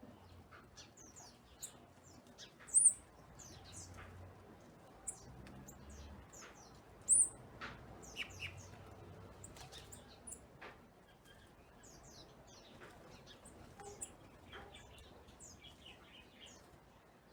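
Several small birds chirping and calling in short, high notes, with two sharp, loud chirps about three and seven seconds in.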